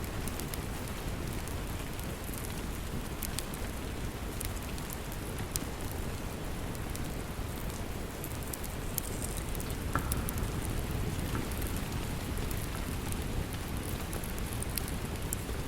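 Steady rain, with scattered small sharp crackles of a wood fire over it.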